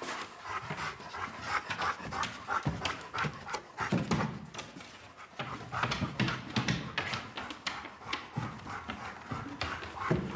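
A dog panting rapidly, a long run of quick breaths.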